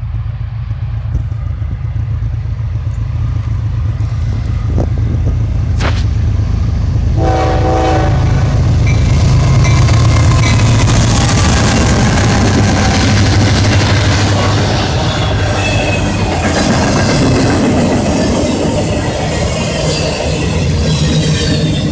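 A CSX freight train approaches and passes: one short horn blast about seven seconds in, then the diesel locomotives' rumble at its loudest as they go by, followed by the rolling clatter of autorack cars with thin high squeals from the wheels.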